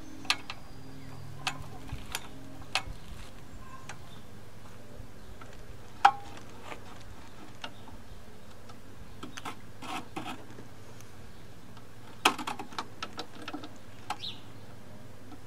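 Scattered sharp clicks and light knocks of hand tools and metal parts being handled during engine reassembly, the loudest about six seconds in and a quick run of them about twelve seconds in, over a steady low hum.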